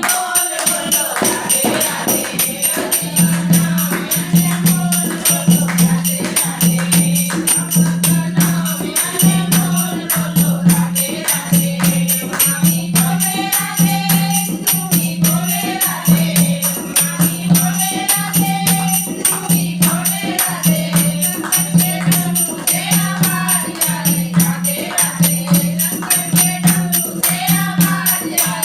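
A group of voices singing a Hindi Krishna bhajan over a steady dholak beat and rhythmic jingling percussion.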